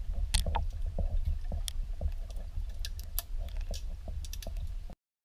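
Water lapping and knocking against a kayak hull, with scattered small splashes and ticks over a steady low rumble. The sound cuts off suddenly near the end.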